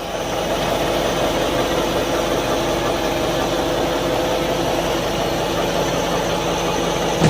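Vacuum-jetting tanker truck's machinery running steadily: the engine driving the rotary-vane vacuum pump and high-pressure water pump, with a constant mechanical hum and no change in speed.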